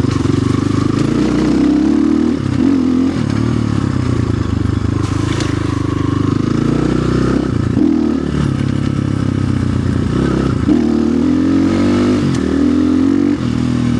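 Orion RXB250XL 250cc dirt bike engine running under way, its pitch rising and falling repeatedly as the throttle is opened and eased off.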